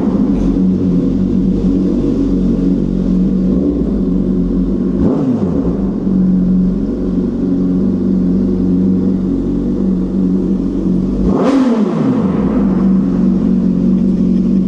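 Honda CBR600RR inline-four engine running through an aftermarket TOCE exhaust at steady revs, a constant drone, with brief changes in the engine note about five seconds in and again near eleven seconds.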